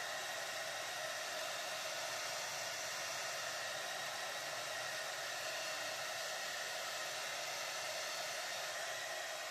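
Hair blow dryer running steadily, a constant rush of air with a faint high whine, as it dries a freshly washed mustache.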